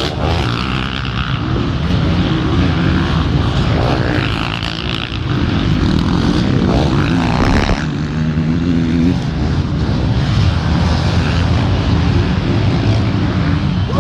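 Off-road motorcycle engines running and revving continuously, the pitch climbing and falling as the throttle opens and closes.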